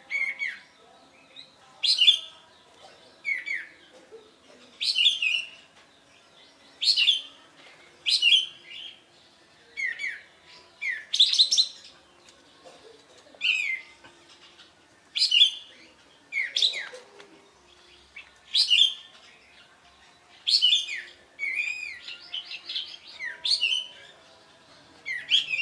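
Kapas tembak songbird singing in full song: short, loud whistled phrases of sliding notes, repeated about every second and a half, with a quicker run of notes near the end.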